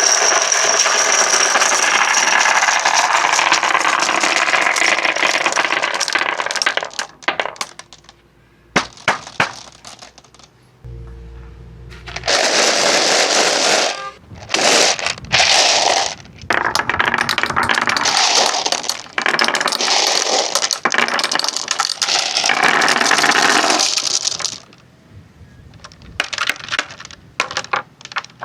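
Marbles rolling along wooden tracks with a steady rumbling rattle, broken by quieter gaps and sharp clicks and clacks as they drop and strike from one section to the next.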